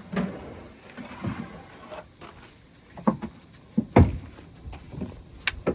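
Several hollow knocks and clunks of plastic kayaks and paddles being handled and loaded onto a vehicle's roof, the loudest about four seconds in.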